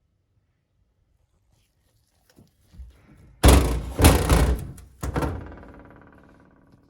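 Heavy metal parts knocking together, a few thunks and clanks in quick succession about halfway in. The last clank is left ringing, dying away over about a second and a half.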